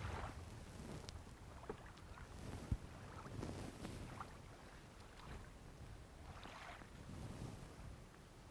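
Faint surf washing in gentle swells about every three seconds, with a low rumble of wind on the microphone and a few small sharp clicks.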